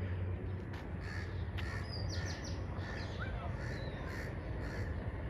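Birds calling: a run of short, harsh calls about once a second, with a few small high chirps, over a steady low rumble.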